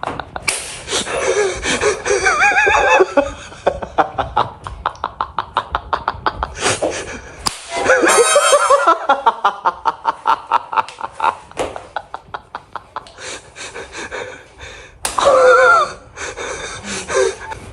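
People laughing, gasping and snickering while trying to hold it in, including long runs of quick breathy laugh pulses at about five a second and a few squealing high-pitched outbursts.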